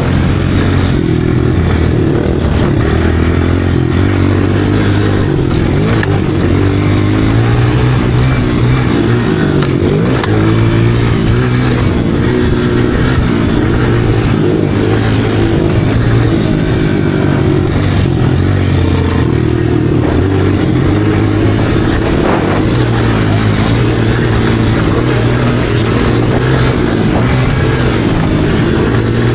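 Motocross dirt bike engine running under way, its note rising and falling with the throttle.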